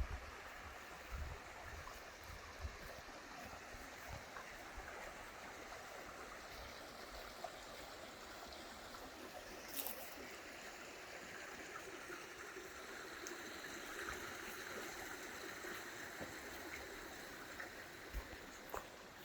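Creek water running steadily over rocks, with a sharp click about ten seconds in.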